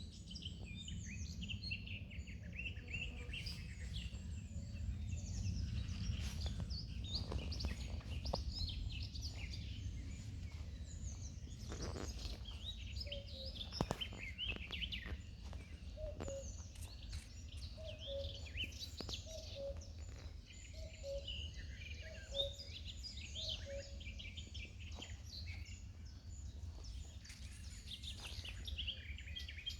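Morning bird chorus: many birds chirping and singing at once, over a steady low rumble. Around the middle, a short low call repeats about once a second for several seconds.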